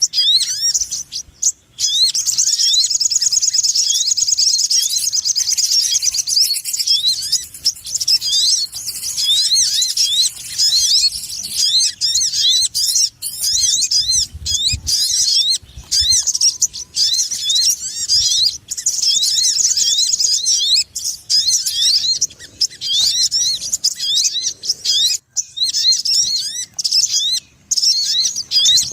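Sogon ontong birdsong used as a lure call: a loud, nonstop run of short, high, rising chirps, thickening into fast, dense trills a couple of seconds in and again about two-thirds of the way through.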